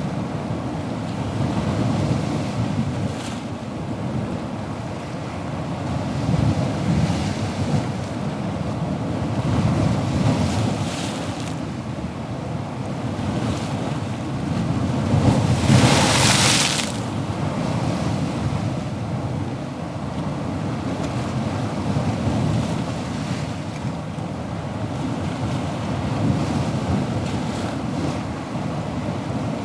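Ocean waves washing continuously, with one louder wave breaking about halfway through.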